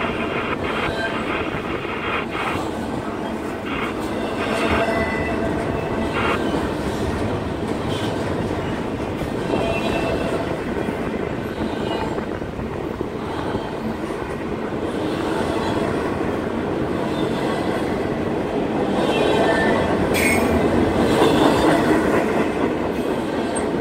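Double-stack intermodal freight train rolling past: steel wheels on the rails making a steady rumble and clatter of well cars going by, with brief high-pitched wheel squeals coming and going. It gets louder around 19 to 22 seconds in.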